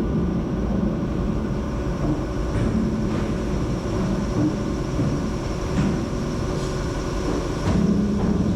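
Ice-plant machinery running steadily: a low rumble with a constant hum, broken by a few faint knocks.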